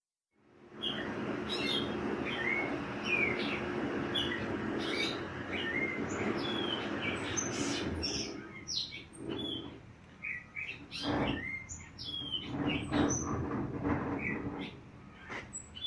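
Small songbirds chirping in a steady stream of short, sliding whistled notes. A steady low hum runs beneath them for the first half and stops about halfway through.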